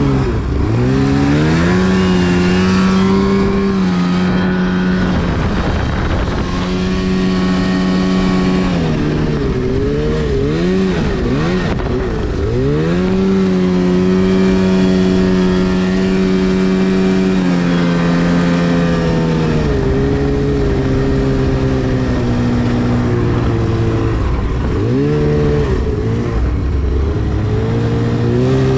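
2010 Arctic Cat CFR 1000 snowmobile's two-stroke twin engine under throttle, revving up and holding steady high revs, then easing off and revving up again several times.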